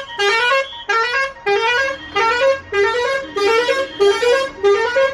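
Vehicle's musical horn sounding a repeated two-note rising pattern, about twice a second.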